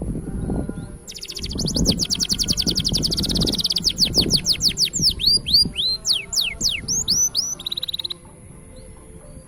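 Green canary singing: a fast trill of rapidly repeated notes, then a run of slower down-slurred whistles and a brief buzzy trill, the song stopping about a second before the end. A steady high-pitched tone runs underneath.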